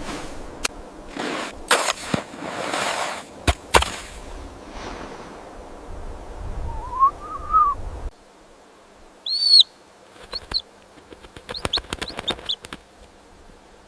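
Clicks and rustling noise, then a short rising-and-falling call, then several short high bird chirps in the second half.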